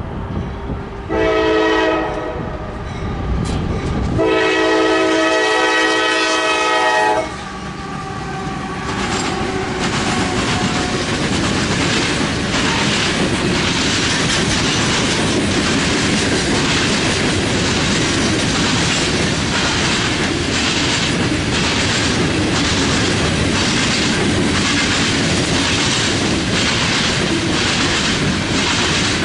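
CSX freight locomotive air horn sounding a multi-note chord: a short blast, then a long one of about three seconds, the close of a grade-crossing signal. The train then passes with a steady loud rumble and rhythmic clicking of wheels over the rail joints as the cars roll by.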